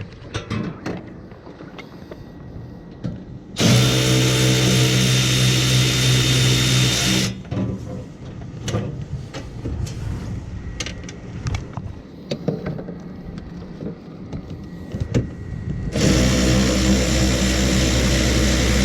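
Cordless drill-driver running twice in steady runs of about four seconds each, the second starting near the end, backing out the fasteners of a generator's enclosure panel. Small clicks and knocks of handling come in between.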